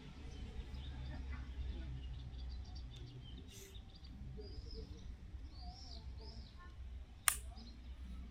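A few short bird chirps, each rising and falling, over a steady low rumble. A single sharp click a little after seven seconds in is the loudest sound.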